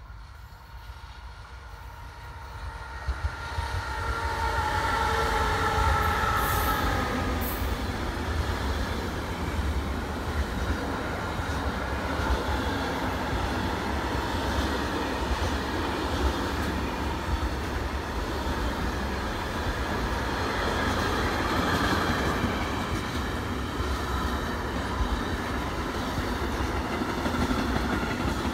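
A train passing close by on the rail line, rising over the first few seconds into a loud, steady rumble of wheels on rails that lasts over twenty seconds. Several steady tones ring over it between about three and eight seconds in.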